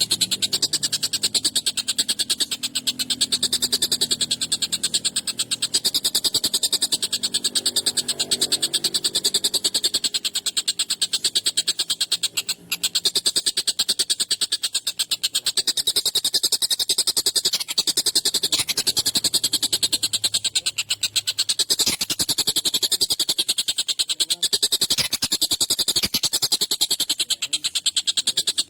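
Tengkek buto kingfisher calling in a continuous, very fast, harsh rattling chatter of high, evenly spaced notes, with a brief break about 13 seconds in.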